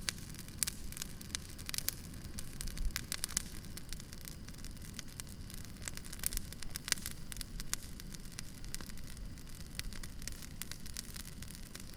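Campfire crackling, with frequent irregular sharp pops and snaps over a low steady rumble.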